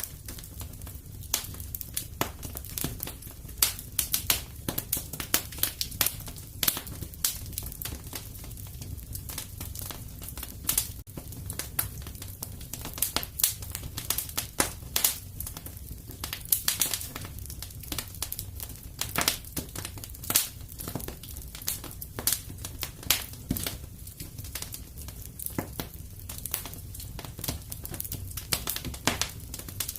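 Fireplace fire crackling: a steady scatter of sharp pops and snaps, some louder than others, over a low rumble of the burning.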